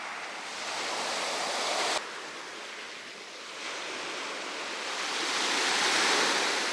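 Sea surf washing onto the beach: a steady rushing hiss that drops suddenly about two seconds in, then builds again to its loudest near the end as a wave comes in.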